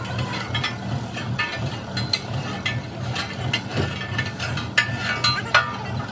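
Irregular metallic clicks and clinks of hand tools working on metal parts, several a second, over a steady low machine hum; the sharpest strikes come near the end.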